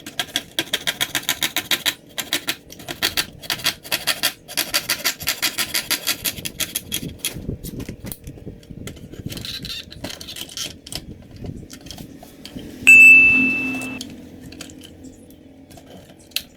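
Rapid mechanical clicking, about seven clicks a second, in runs over the first several seconds, then scattered handling noises. Near the end comes a single loud electronic beep about a second long.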